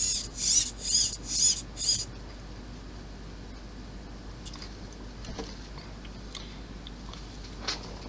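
A quick run of five short, high squeaks, about two a second, over the first two seconds, then only a few faint small clicks.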